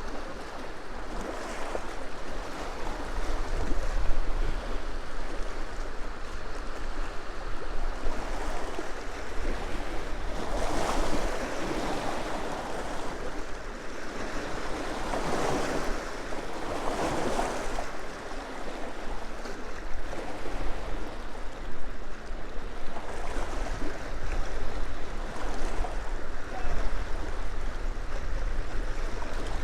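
Small waves washing in on a loch shore, swelling every few seconds, with wind buffeting the microphone.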